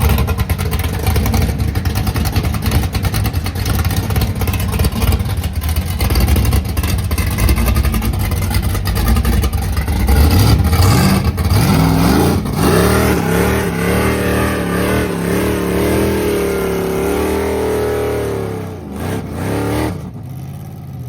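BMW M340i's turbocharged B58 inline-six running loud through a catless downpipe and valved exhaust, crackly at first, then revving up about halfway through and holding high revs with a wavering tone before easing off near the end.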